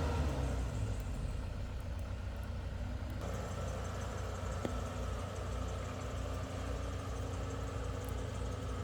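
Heavy diesel engine of construction machinery running steadily at low revs, with the sound shifting abruptly about three seconds in.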